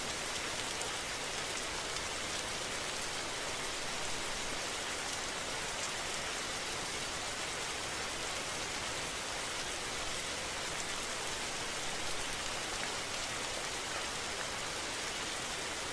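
Steady rain falling on surfaces, an even hiss with fine pattering.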